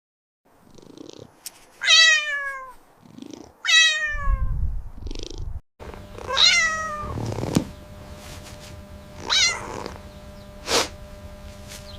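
Cat meowing four times, each meow falling in pitch, with a low rumbling sound between the second and third.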